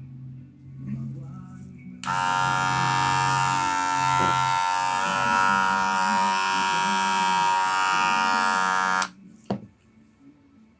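Wahl Senior hair clipper switched on and running with a loud, steady buzz for about seven seconds, then stopping suddenly, followed by a single sharp click. This is a test run to hear whether the clipper's abnormal noise comes from its blade.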